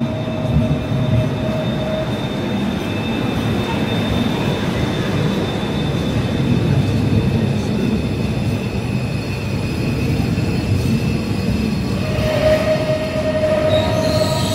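SKM suburban electric multiple unit pulling into an underground station platform: a steady rumble of wheels on rail with a thin high squeal. Near the end a stronger whining tone comes in as the train runs along the platform.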